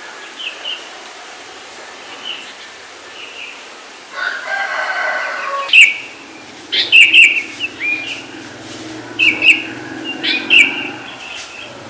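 Birds chirping in short, sharp calls that come thick and loud in the second half, after one longer call of about two seconds around four seconds in.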